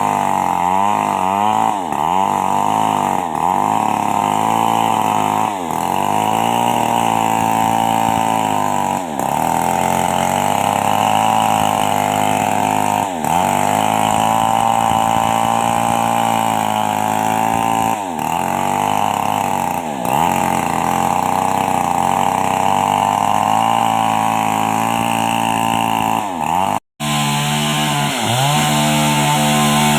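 Old two-stroke chainsaw running at high revs while ripping lengthwise along a coconut palm trunk. Its pitch dips and climbs back every few seconds as the engine is eased and opened up again, and the sound cuts out for an instant near the end.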